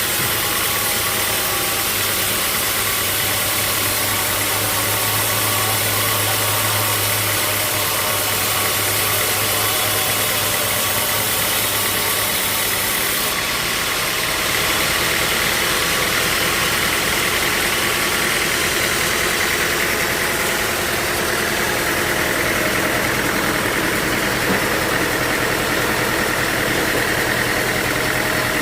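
Sawmill machinery running steadily, a continuous engine-like hum under a broad hiss; the high part of the hiss drops away about halfway through.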